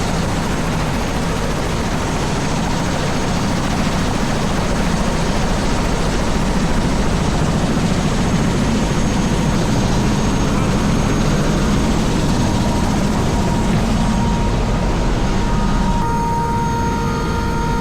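Helicopter running steadily: a loud, constant engine and rotor noise. Near the end the hiss thins and a steady whine stands out more clearly.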